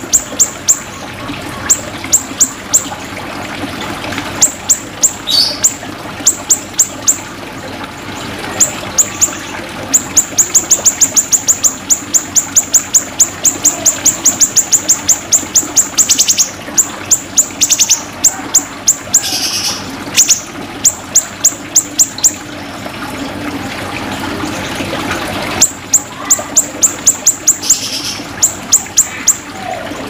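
Siri-siri bird calling in long rapid trains of short, sharp, high notes, several a second, with a few brief pauses and a few harsher, rasping notes in between.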